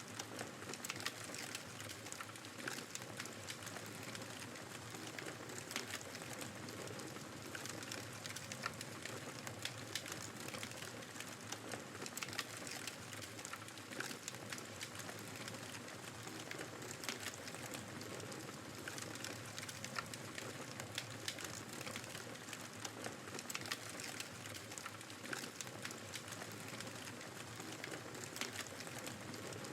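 Wood fire crackling with frequent small irregular pops over a steady hiss of snowstorm wind.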